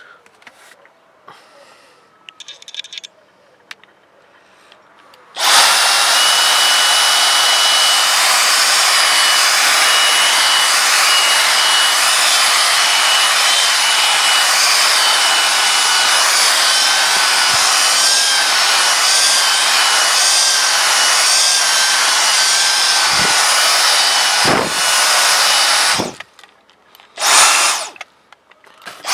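Dyson DC56 handheld vacuum cleaner switched on after a few seconds of handling clicks, running with a loud, steady rush of air and a high whine. It cuts off near the end, runs again for about a second, and stops.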